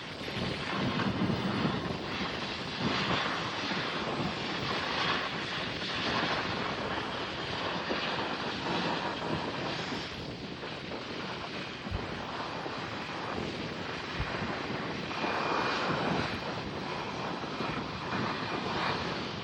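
Airliner engine noise: a continuous broad roar that swells and eases a little.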